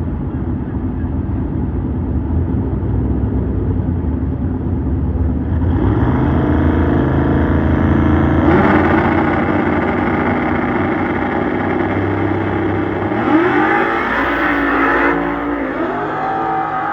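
Street cars' engines running, louder from about six seconds in, with an engine revved up and back down twice, about halfway through and again near the end.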